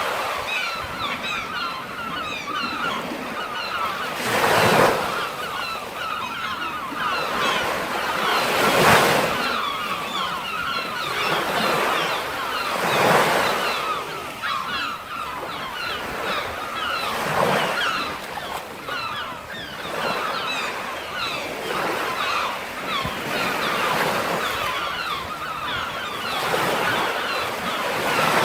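Sea surf breaking on a shore: a steady wash of foam and water, with a wave surging louder about every four seconds and then drawing back.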